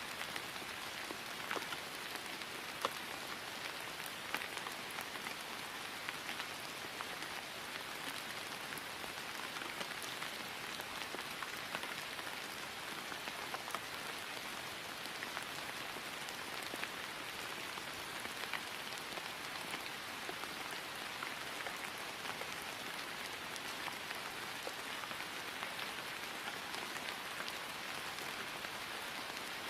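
Steady rain falling on grass, an even hiss dotted with many small, distinct drop ticks.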